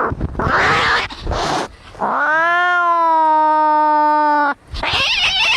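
Angry cats fighting: harsh, noisy yowls, then one long drawn-out caterwaul that rises in pitch and holds steady for about two and a half seconds before cutting off, followed by more harsh cries.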